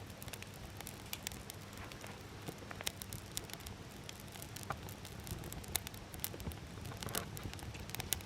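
Campfire of scrap lumber crackling, with irregular sharp pops scattered throughout over a low steady rumble.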